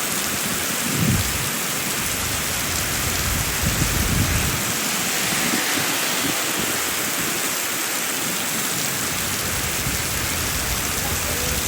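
Heavy rain pouring steadily, with two brief low rumbles, about a second in and again around four seconds in.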